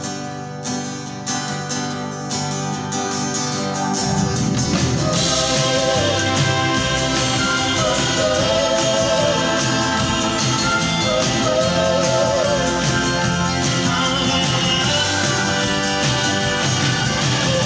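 Live rock/soul band playing an instrumental passage between verses. Guitar chords open it, then the full band comes in about four seconds in, louder, with drums, bass and held wavering notes from voices or keys above.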